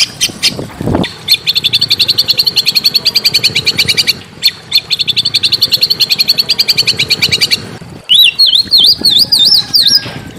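Small songbirds singing. One bird gives a rapid run of repeated high chipping notes for about six seconds; after a short break, a different fast, wavering up-and-down whistled phrase starts near the end. A brief low thump comes about a second in.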